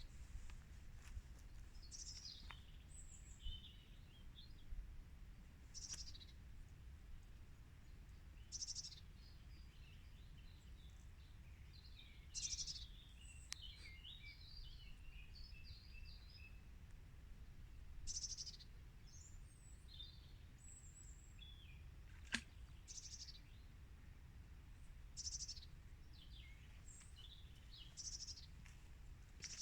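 Faint birdsong: short high calls repeated every few seconds, with scattered twittering between them, over a low steady rumble. A single sharp click comes about two-thirds of the way through.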